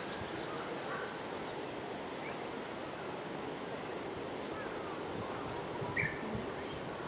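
Steady background hiss with a few faint, short bird calls, the clearest one about six seconds in.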